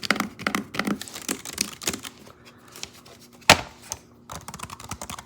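Typing on a small portable Bluetooth keyboard: quick runs of plastic key clicks, with one louder, sharper clack about three and a half seconds in.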